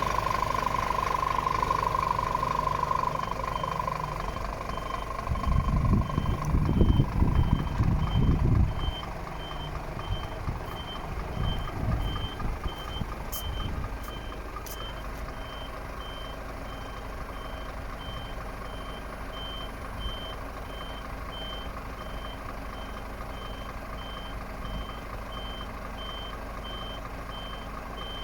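Scania P410 truck's 13-litre six-cylinder diesel starting about five seconds in and settling to idle, while its reversing alarm sends out short high beeps about twice a second. A steady warning tone sounds for the first few seconds.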